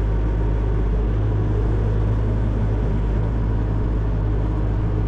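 Excavator's diesel engine running steadily, an even low hum.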